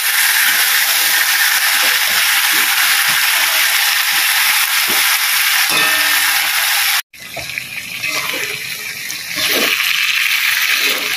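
Chicken, onions and chilies sizzling loudly in a hot wok while a slotted metal spatula stirs and scrapes them around the pan. The sound cuts off abruptly about seven seconds in, comes back quieter and then builds to full level again.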